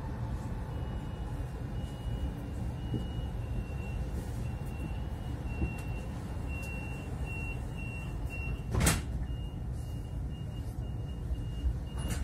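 Running noise inside a Stadler ESh2 double-deck electric train: a steady low rumble with a thin high whine that comes and goes. A single sharp knock comes about nine seconds in.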